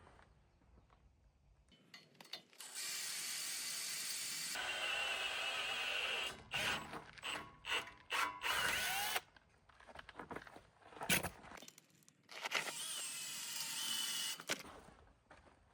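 Power drill running in bursts. There is a long run about two and a half seconds in, then a quick series of short trigger pulls with the motor whine winding up and down, and another run near the end.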